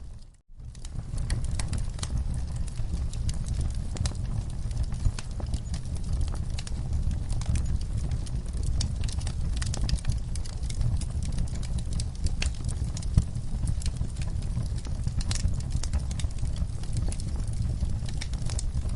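Wood fire crackling in a fireplace: a steady low rumble of burning with frequent sharp pops and snaps. The sound drops out for a split second near the start, then resumes.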